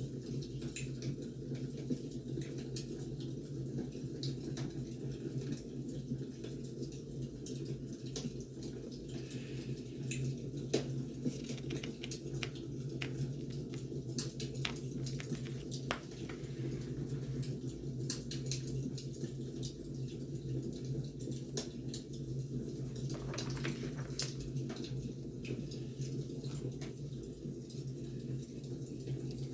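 Wood fire crackling: a steady low rumble with frequent irregular pops and snaps.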